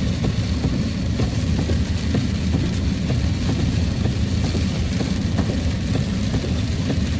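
Heavy rain hitting a truck's roof and windshield in scattered irregular ticks, heard inside the cab over the truck's steady low rumble.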